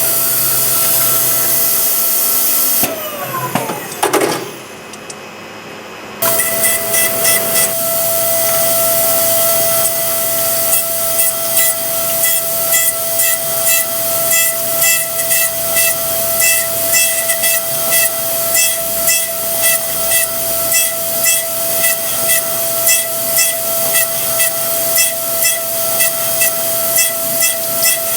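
Versamill 5X200 dental milling machine wet-milling an e.max ceramic block: a high spindle whine over a steady coolant hiss. A few seconds in, the spindle winds down with a falling whine. It restarts sharply a few seconds later, and the hiss then pulses about once a second as the tool cuts.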